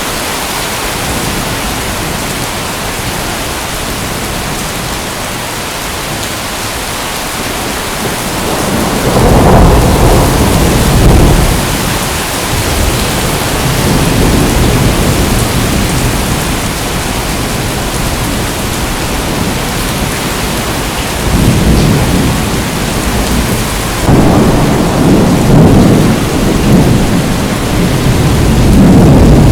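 Steady rain hiss; about nine seconds in, low rolling thunder begins and swells up again several times.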